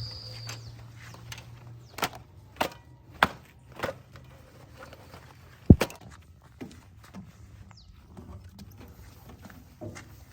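A series of short, sharp knocks, four in quick succession and then one louder knock a couple of seconds later, with fainter knocks near the end.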